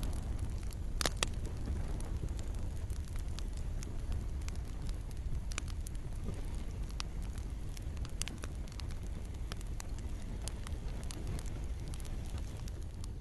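Campfire crackling steadily, wood popping in sharp snaps, the loudest a little after a second in, over a low rumble, with rain falling.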